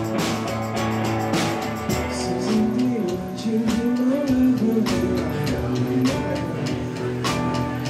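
Live rock band playing, with electric guitar and drums; a singing voice comes in about two and a half seconds in.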